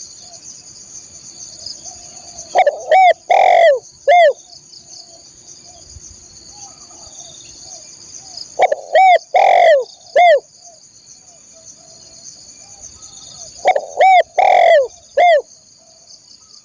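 A dove (tekukur/derkuku) cooing in three phrases of about four notes each, a few seconds apart. Under it runs a steady high-pitched insect drone.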